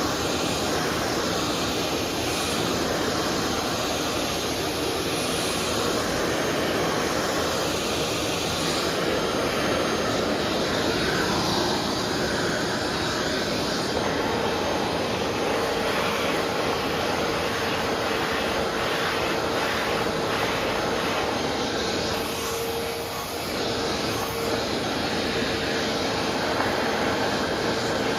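Vacuum cleaner running steadily. About halfway through, a steady whine joins the noise, and the sound dips briefly near the end.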